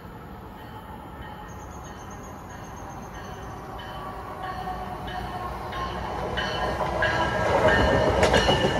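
A train approaching along the tracks, growing steadily louder, with faint high whining tones over the building wheel noise.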